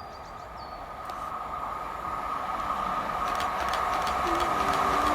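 Class 150 Sprinter diesel multiple unit approaching the station, growing steadily louder, with a steady whine over its rumble.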